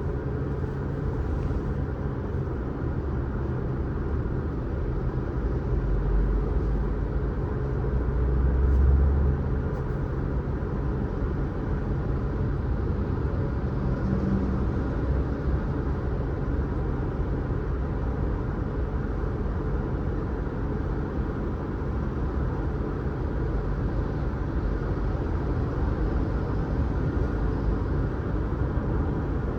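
Car driving on the road: a steady rumble of engine and tyre noise that swells briefly about nine seconds in.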